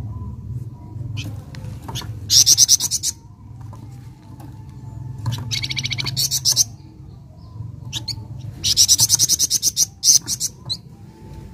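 A flamboyan songbird singing in short, fast, high-pitched trills: three loud bursts of rapidly repeated notes about 2, 6 and 9 seconds in, with a few shorter single calls between them, over a steady low hum.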